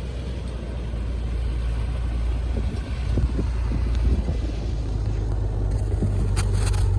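Boat's outboard motors running with a low, steady rumble, and a few short clicks near the end.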